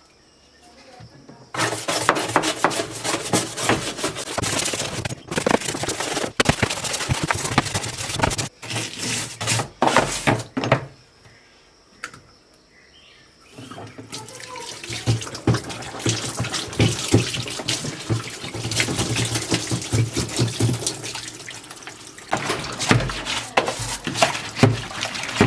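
Tap water running and splashing while a washing-machine pulsator wheel is washed and scrubbed clean, with a couple of short breaks, the longest about eleven seconds in.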